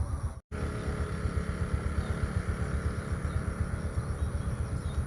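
Wind buffeting the microphone in a steady, fluttering low rumble, broken by a brief dropout about half a second in. A few faint bird chirps sound over it.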